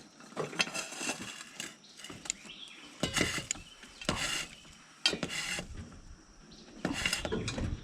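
Hand tools working on heavy-equipment parts: a series of short metallic scrapes and clanks, about half a second each, with gaps between them.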